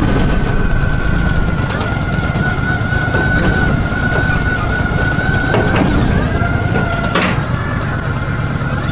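Sawmill running: a loud, steady mechanical rumble with a steady high whine and a few sharp knocks. The whine wavers and breaks briefly about six seconds in.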